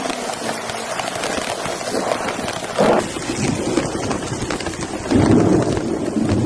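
Rain and gusting wind buffeting the microphone, with louder surges about three and five seconds in.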